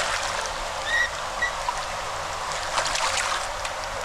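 Steady rush of floodwater pouring through a storm drain outflow, with two short high chirps about a second in and a few brief clicks near the end.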